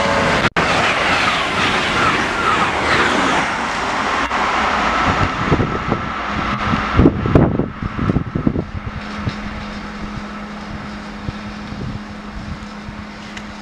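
SJ X2 high-speed train passing at speed: a loud rush of wheel and air noise, with a quick burst of clattering as the end of the train goes by about seven seconds in, then fading as it draws away.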